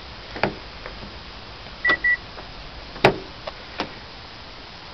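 A quick double electronic beep about two seconds in, among several sharp clicks and knocks, the loudest about three seconds in.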